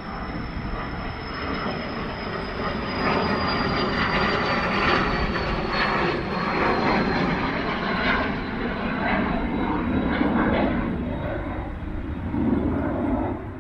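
Jet airplane passing, a steady rumble with a high whine that slowly falls in pitch.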